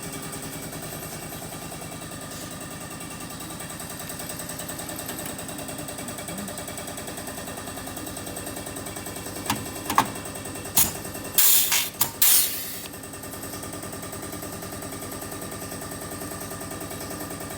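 Rivet gun setting rivets into steel panel work: a few sharp clicks about ten seconds in, then two short, loud, harsh bursts about a second apart, over a steady humming background.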